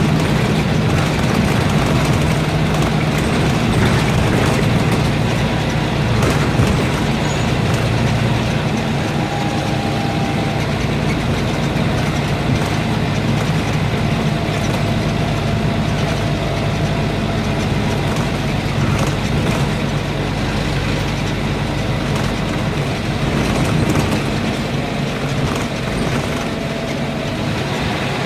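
Scania N230UB single-decker bus's diesel engine running steadily on the move, with occasional faint clicks.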